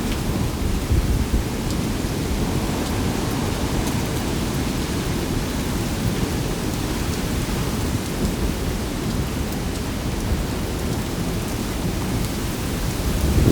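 Heavy rain pouring down in a strong wind, a steady hiss with small drop ticks over a low rumble of gusting wind.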